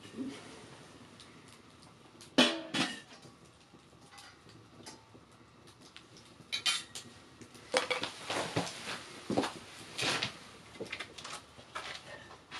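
A series of knocks and clatters from objects being handled: two sharp hits about two and a half seconds in, then a busier run of clicks and knocks in the second half.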